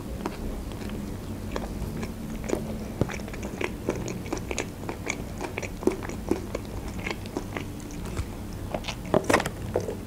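Close-miked chewing of a mouthful of burger: many short, irregular mouth clicks over a steady low hum.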